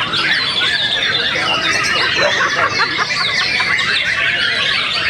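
Many caged songbirds singing at once, mostly white-rumped shamas (murai batu): a dense, overlapping chorus of loud whistles, trills and quick chirps.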